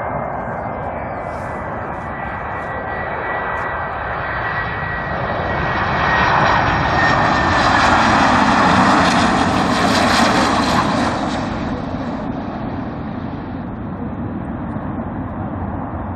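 Boeing 737-500 jet airliner on its landing approach flying past, its CFM56 turbofan engines swelling to their loudest about halfway through and then fading. A high fan whine is heard at first and slides slightly down in pitch as the plane passes.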